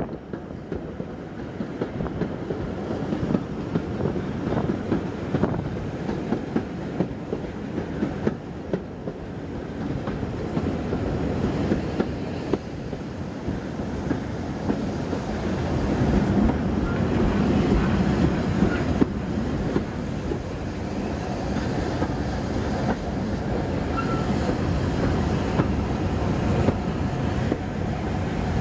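Passenger train coach running along the line, its wheels making a clickety-clack over the track under a continuous rumble. It grows louder in the second half.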